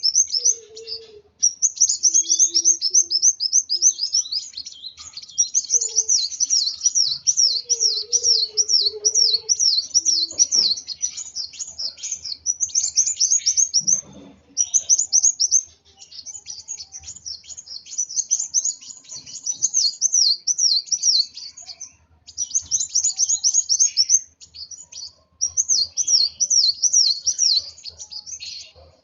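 Kolibri wulung sunbird singing in long, fast strings of high, thin, rapidly repeated chirping notes, phrase after phrase with brief pauses between, the agitated full song of a bird worked up.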